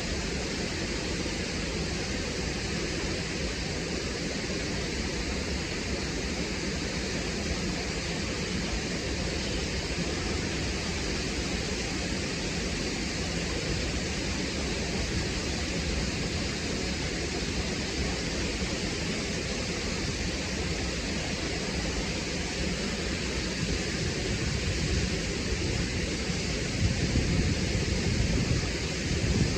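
Waterfall crashing onto rocks: a steady, dense rush of water, with the low rumble swelling a little near the end.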